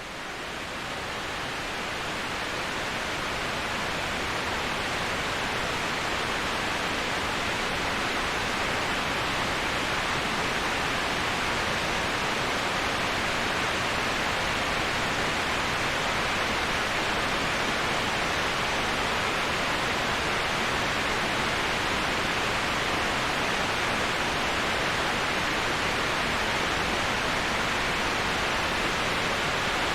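Steady, even rushing noise of a waterfall white-noise track, swelling up over the first couple of seconds and then holding level, with no distinct splashes or other events.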